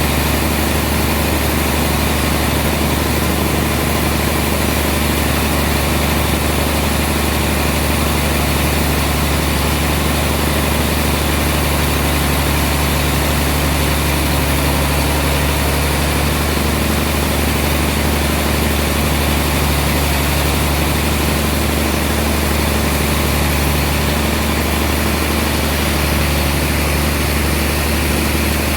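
Sawmill machinery running steadily: a loud, constant engine-like hum with no change in pitch or load.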